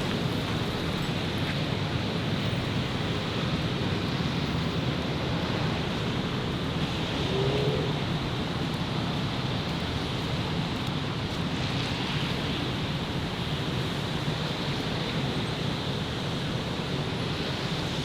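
Steady city street noise: a continuous hum of road traffic with no single sound standing out.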